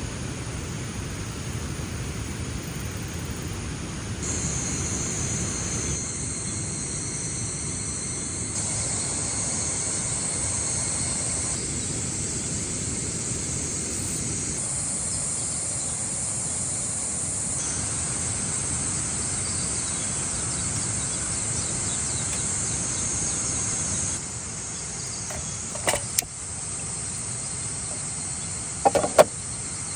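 Insects chorusing in a steady high drone, over a low steady rumble, with a few short knocks near the end.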